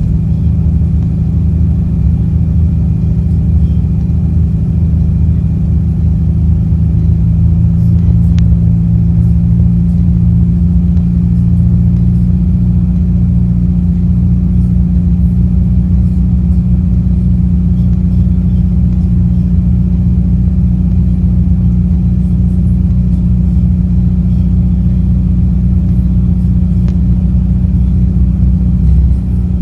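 A car's engine and exhaust droning steadily at low speed, heard from inside the moving car, with a deep rumble underneath. Near the end the drone briefly dips in pitch as the engine speed changes.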